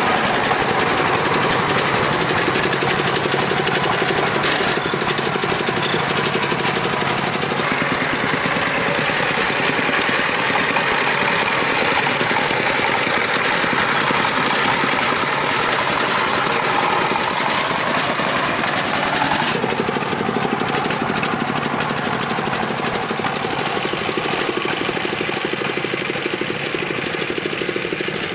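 Engine of a farm tricycle truck running steadily with a rapid, even beat; its note shifts about two-thirds of the way through.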